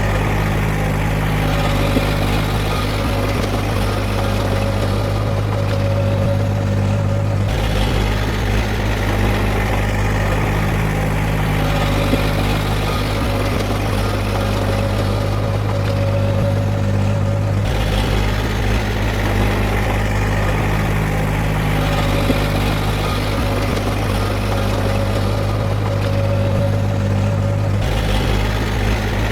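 Heavy earthmoving machine's diesel engine running steadily with a deep hum. Its sound changes abruptly three times, about ten seconds apart.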